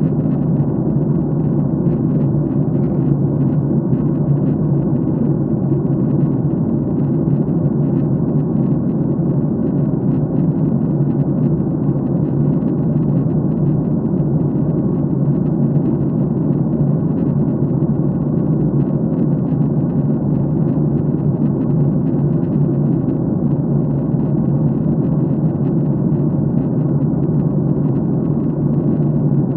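Airliner cabin noise in flight: a loud, steady low drone of engines and rushing air, unchanging throughout.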